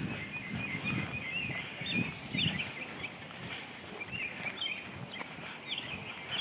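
Small birds chirping over and over in short, quick notes, with low irregular thumps from the walker's footsteps and handling of the hand-held camera.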